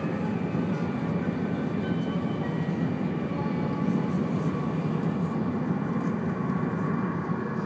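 Cabin noise inside a 200 series Shinkansen car running at speed: a steady low rumble of the wheels and running gear, with faint thin whining tones above it.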